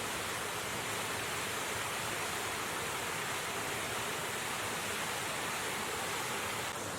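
Steady rushing of river water, level just before the end where it drops slightly.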